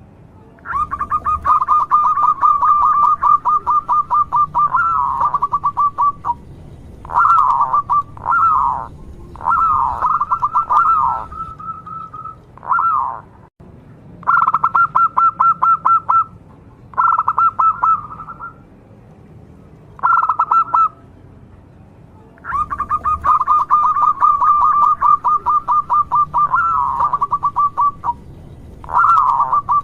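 Local zebra dove (perkutut) singing: phrases of fast, evenly repeated cooing notes at one pitch, each ending in a few short falling coos, repeated with pauses of a second or two between them.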